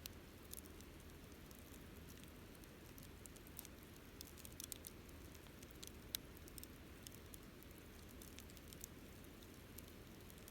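Wood campfire burning quietly: scattered sharp crackles and small pops over a soft low rumble, with one louder pop about six seconds in.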